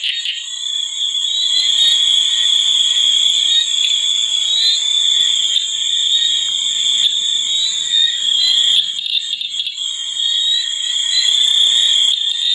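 A steady, high-pitched chorus of calling animals: a continuous shrill trill with small chirps recurring over it, as from massed frogs or insects.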